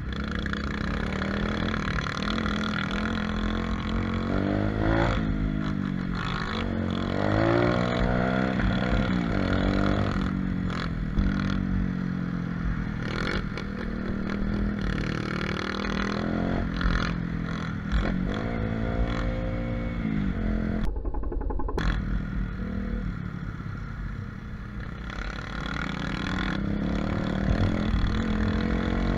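125cc pit bike engine running while being ridden, its pitch rising and falling again and again as the throttle is opened and closed through the gears. About two-thirds of the way through, the sound goes briefly dull for under a second.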